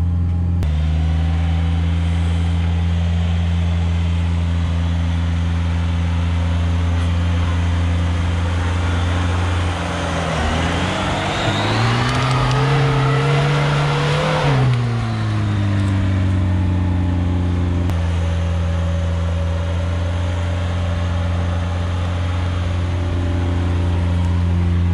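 Lada Niva's four-cylinder petrol engine pulling in low gear on a forest track, revving up about ten seconds in and settling back to a steady lower note after about five seconds.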